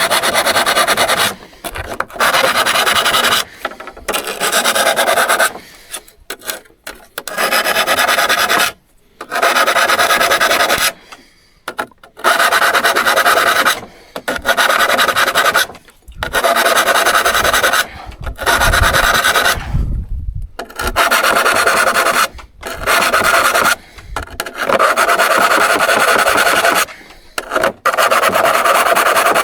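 Saw file being pushed across the teeth of a hand saw in repeated strokes, about one every two seconds, each stroke a loud rasp with a metallic ring as the teeth are sharpened by hand.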